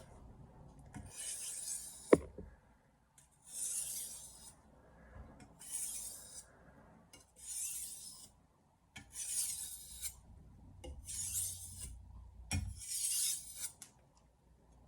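Santoku blade being stroked across a wet soaking whetstone, seven light scraping passes about two seconds apart, while deburring the edge. A sharp knock about two seconds in and another near the end.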